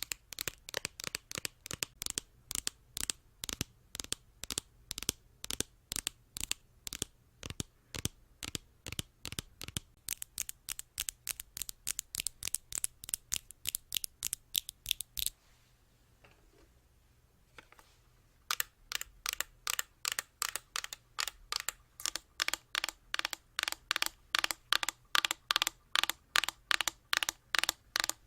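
Rapid, even ASMR tapping, crisp clicks at about three to four a second. It pauses for about three seconds midway, then resumes with a faint ringing tone under each tap.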